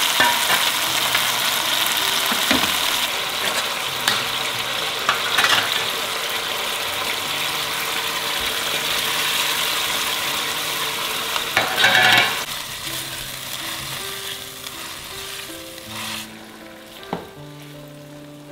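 Sardines in tomato sauce sizzling in a hot nonstick wok, with a few scrapes and stirs of a metal slotted spatula. The sizzle dies down over the last few seconds, leaving soft background music.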